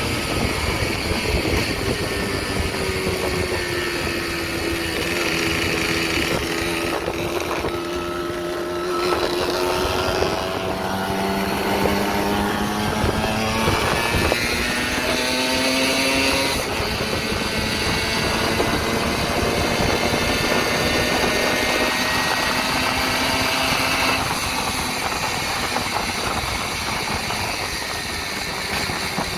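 Tomos 14M five-speed two-stroke moped engine, bored to 60 cc, running, its revs slowly rising and falling with a few changes in pitch along the way.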